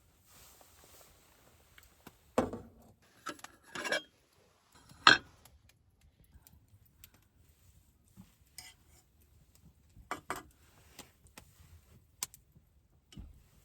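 Scattered knocks and clinks of dishes and utensils being handled, with the sharpest knock about five seconds in.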